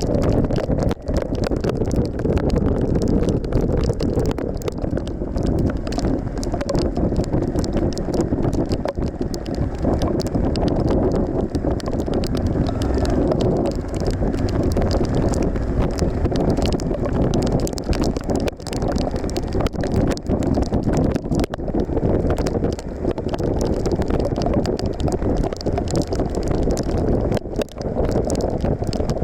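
Wind buffeting a microphone on a moving motorcycle, with a steady low rumble of engine and road underneath and frequent small crackles throughout.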